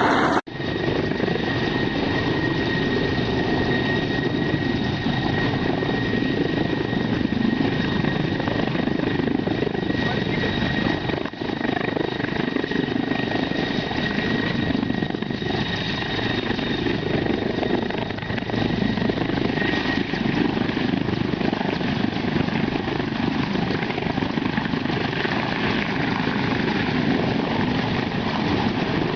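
Helicopter running steadily: a constant, even noise with a steady high whine over it.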